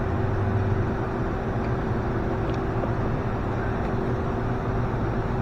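Steady mechanical running hum with a constant low drone and a fainter steady higher tone, unchanging throughout.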